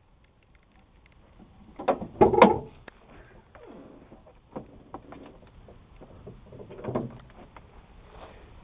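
Handling noises: two loud clunks about two seconds in, then scattered light knocks and rustling, with a smaller clunk near the end.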